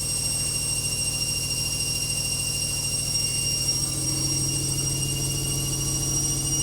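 Logik washing machine on its final spin with a badly unbalanced load: the drum spinning fast, with a steady high-pitched motor whine over a rapid low rumble from the shaking machine.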